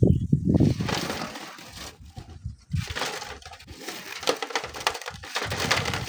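Loose sand and gravel crumbling off a sand cliff with a dense crackle, starting about a second in after a low rumble fades.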